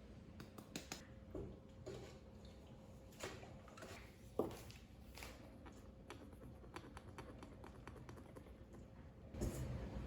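Faint, scattered light taps and clicks of baking work being handled in a kitchen, over a faint steady hum, with a louder knock and rustle near the end.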